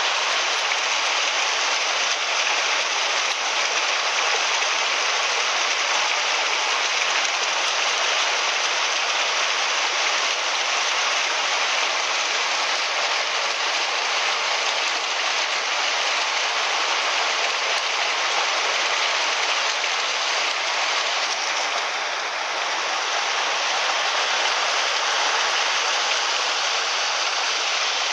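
Mountain stream rushing steadily over rocks, an even, continuous water noise.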